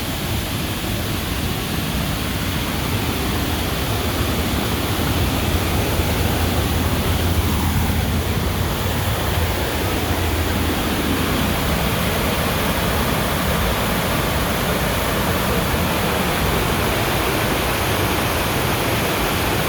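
A big waterfall rushing and crashing, a loud, steady roar of falling water with a deep rumble underneath, heard from right beside it.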